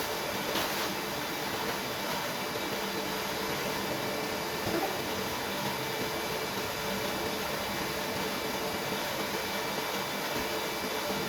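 Steady hum and hiss of a running motor, faint steady tones over an even noise that does not change.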